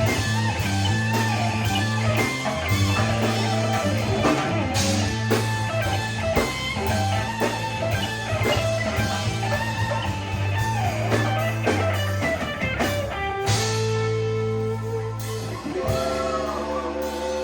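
Rock band playing an instrumental stretch: an electric guitar lead with bending notes over bass and drums, with no singing. About three-quarters of the way through, the guitar moves to held chords.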